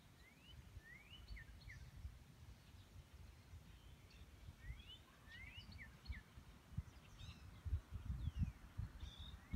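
Birds singing, faintly: many short, rising chirps in quick groups, over a low, uneven rumble.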